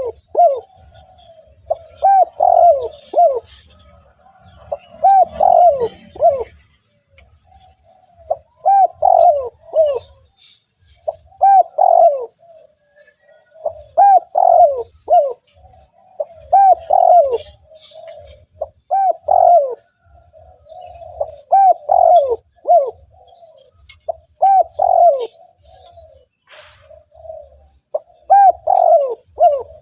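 Spotted dove (tekukur) cooing over and over, each phrase a quick run of three or four notes, repeating about every two to three seconds.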